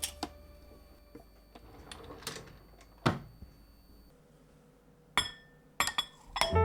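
Kitchenware clinking against glass dishes while preparing a dish: a few separate clinks, then a quick run of clinks near the end.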